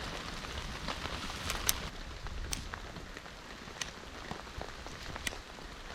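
Steady light rain falling, with scattered sharp ticks of drops or small crackles now and then.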